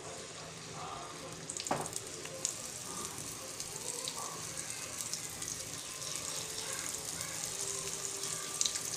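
Masala-coated brinjal (eggplant) slices shallow-frying in hot oil, a steady sizzle full of fine crackles as the slices are laid into the pan one after another. The sizzle thickens and gets louder about one and a half seconds in.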